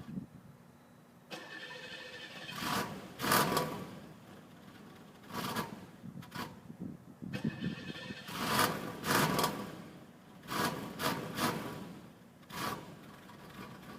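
Car engine being cranked on a cold start: two long spells of the starter turning over, each with irregular loud surges as the engine tries to catch.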